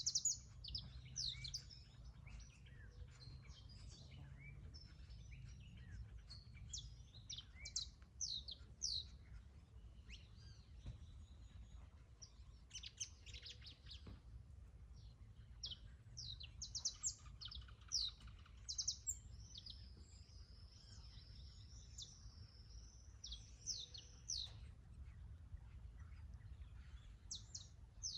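Canary singing: a varied, high-pitched song of quick chirps and rapid trills, with one long held whistle about twenty seconds in, over a low background rumble.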